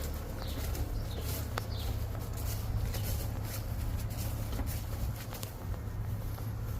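Small birds chirping, a few short falling chirps, with footsteps through the weeds over a steady low rumble.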